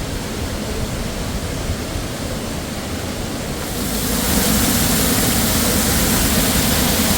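Waterfall rushing: a steady roar of falling water that grows louder and brighter about four seconds in.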